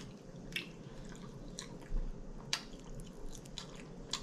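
Close-miked chewing of a sauce-coated air-fried chicken wing: quiet wet mouth sounds with a few sharp, wet clicks.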